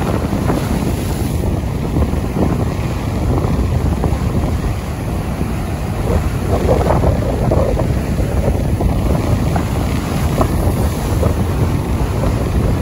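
Strong wind rumbling and buffeting the microphone in gusts, over a steady hiss of rain.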